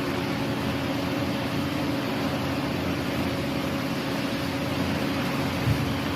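A machine running with a steady hum and hiss, holding a low drone at an even pitch throughout.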